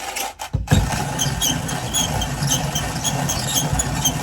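Manual coffee bean grinder being cranked: a steady grinding rumble with regular sharp clicks, about two or three a second, starting about half a second in.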